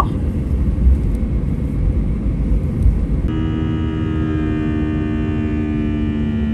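Steady, loud low rumble of a vehicle in motion. About three seconds in, a steady whine of several held tones joins the rumble.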